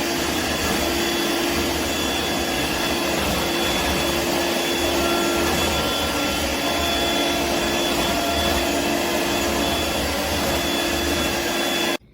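Hoover Dirt Devil Vibe corded stick vacuum cleaner running steadily, its motor giving an even rushing noise with a constant hum. It cuts off abruptly near the end.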